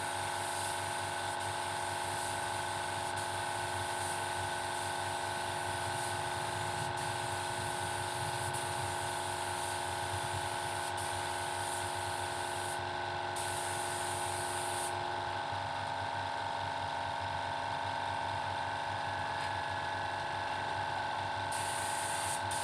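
Paint spray gun hissing as it sprays a coat, over a steady-running air compressor. The spray hiss stops briefly about halfway through and again for several seconds near the end while the compressor keeps running.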